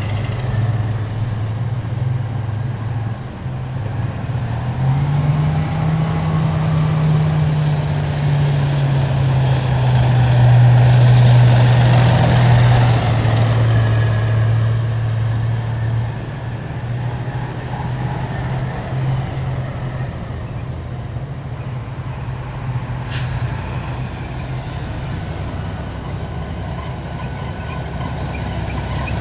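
Heavy military vehicles' diesel engines running as they drive past, the low engine tone rising early on and loudest a little over a third of the way in as one passes close. A short hiss of air brakes comes near the end.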